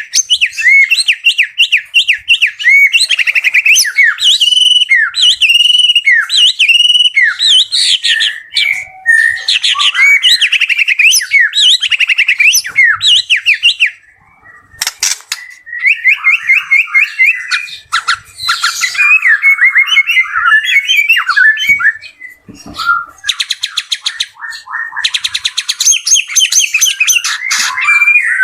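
White-rumped shama (murai batu) singing continuously: a long, varied stream of loud whistled phrases, fast trills and rapid chattering rattles. There is a short break about halfway through.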